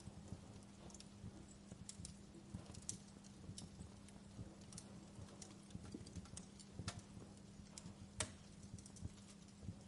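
Campfire of burning wood crackling faintly, with irregular sharp pops and snaps over a low rumble.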